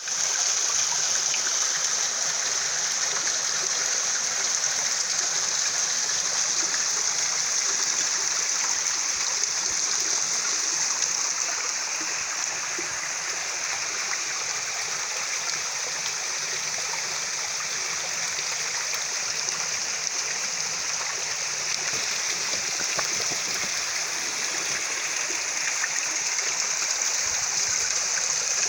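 Waterfall in a mountain valley stream: a steady, unbroken rush of falling water, bright and hissy.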